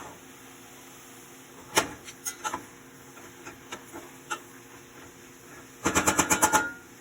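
Kitchen utensils knocking: a few scattered sharp knocks, then a quick run of about eight taps near the end, with a slight metallic ring.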